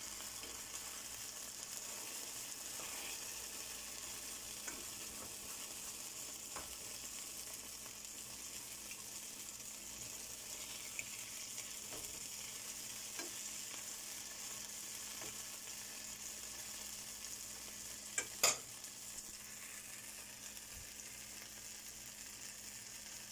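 Plant-based liquid egg sizzling as it fries in oil in a nonstick pan, stirred with a fork. Scattered light clicks run through it, with two sharp, louder clicks about three-quarters of the way through.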